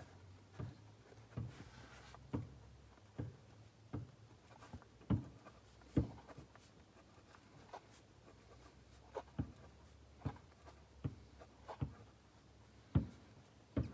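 Irregular light clicks and taps, about twenty scattered unevenly, over a faint low steady hum in a small room.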